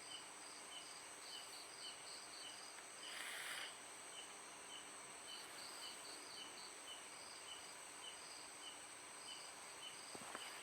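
Faint night-time chorus of crickets and other insects: short chirps repeating about twice a second over a steady high-pitched trill. A brief burst of hiss about three seconds in.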